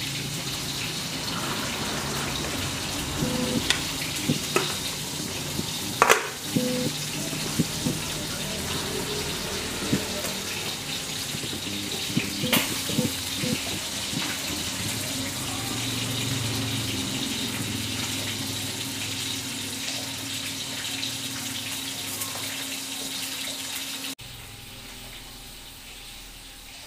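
Chicken and vegetables sizzling steadily in a frying pan, with a few sharp knocks of a plastic spatula against the pan while stirring in the first half. The sizzle drops off abruptly near the end.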